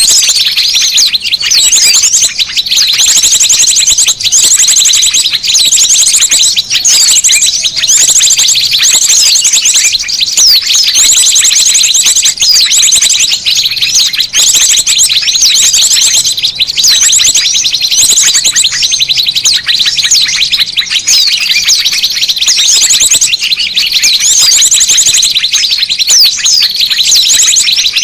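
Bird-lure recording of a dense chorus of small birds, with high-pitched chirping and twittering throughout and a fast trill repeating every second or two.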